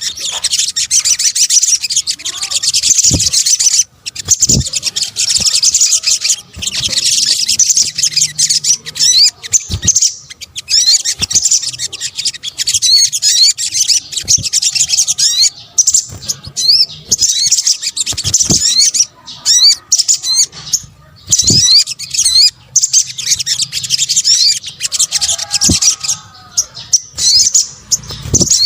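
Sunbird (sogok ontong) calls played as a lure: rapid, high-pitched twittering chirps in dense bursts with short pauses between them.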